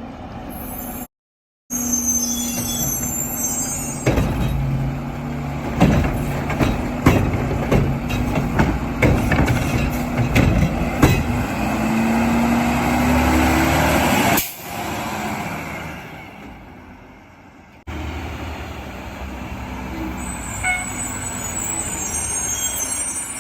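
Heil automated garbage truck working a cart on a Mack chassis: the diesel engine revs under the hydraulic arm while a string of bangs and clatters comes from the cart being shaken and trash dropping into the hopper. Near the middle a rising hydraulic whine is heard, then the sound drops away and later returns as steady engine running.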